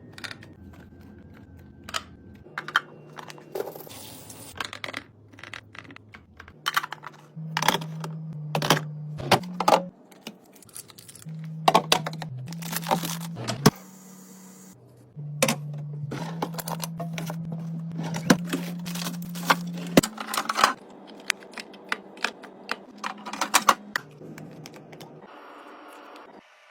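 Plastic containers, jars and lids clicking and knocking as items are handled and set down in a fridge, dozens of separate sharp clicks, with a low steady hum underneath in some stretches.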